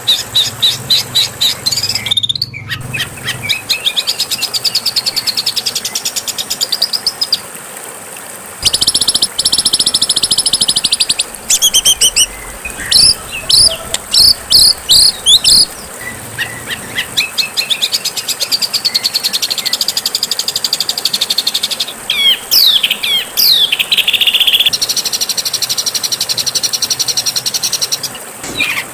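Songbird tutor recording of loud, rapid bird song: fast chattering trills and series of sharp sweeping whistles. The phrases change abruptly from one song type to another.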